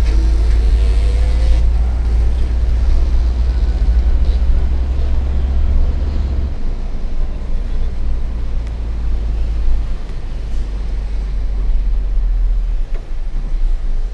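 Hino FL 260 JT truck's diesel engine running on the road with a steady deep rumble; the low note shifts about six and a half seconds in.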